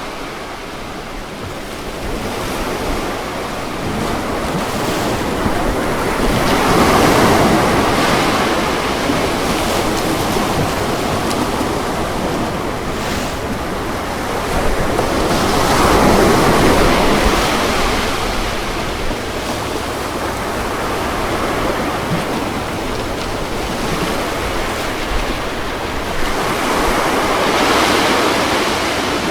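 Ocean waves breaking on a beach, a continuous wash of surf that swells up three times, about every ten seconds, and falls back between.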